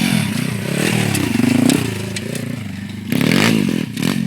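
Small pit bike engine revving up and down unevenly, with a few clattering knocks and a louder surge about three seconds in.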